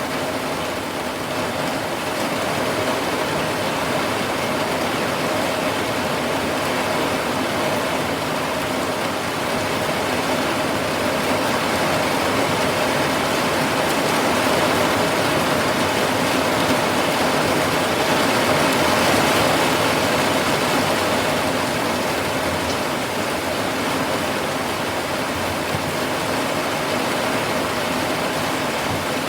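Steady rain falling in a dense, even hiss. It swells a little in the middle, then eases back.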